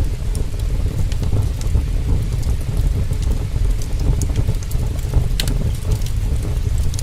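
Heavy rain pouring steadily with a deep rumble, and a few sharp crackles from a wood fire, the loudest about five and a half seconds in.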